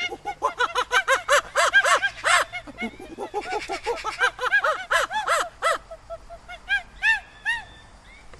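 A group of animals giving many short, rapid calls, each rising and falling in pitch, overlapping in a chattering flurry that thins to a few separate calls near the end.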